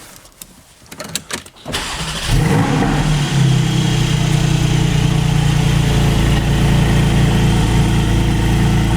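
Porsche GT4 flat-six starting on a newly installed lightweight lithium battery. After a few short clicks, it catches about two seconds in, flares briefly, then settles into a steady idle.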